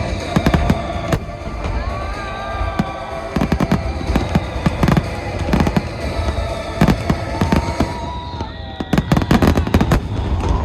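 Fireworks display: many sharp bangs of bursting aerial shells, with music playing beneath them. About nine seconds in comes a rapid volley of bangs.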